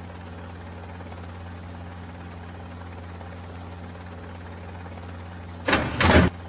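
Steady low drone of a cartoon helicopter. Near the end come two short, loud swishing sound effects as a face panel of the totem pole swings open.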